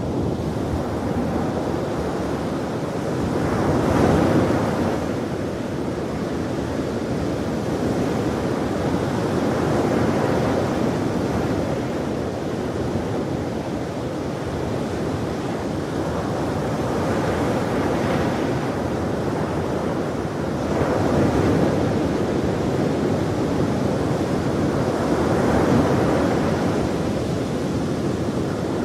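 Ocean waves breaking and washing on a shore, a continuous surf rush that swells every few seconds, with some wind noise on the microphone.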